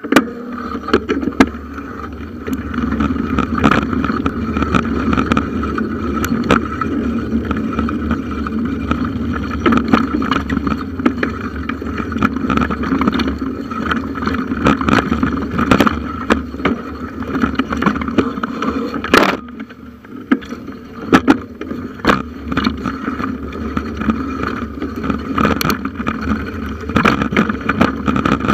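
Bicycle ridden over a forest track, heard through a camera clamped to the handlebars: continuous tyre and frame rumble with wind on the microphone, broken by frequent rattling knocks from bumps, one sharper jolt about two-thirds of the way through.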